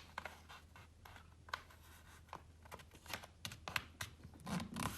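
A sheet of paper being folded and creased by hand: irregular sharp ticks and crinkles as it is pressed and handled. The ticks come faster in the second half, with a duller, fuller rustle near the end.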